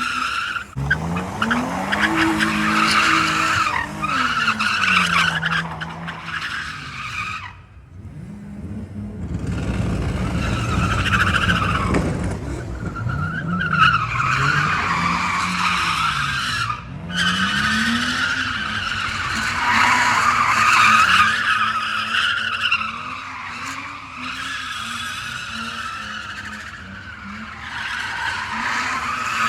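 A car drifting, its engine revving up and down over and over while the tyres squeal, with brief lulls about seven seconds in and again around seventeen seconds.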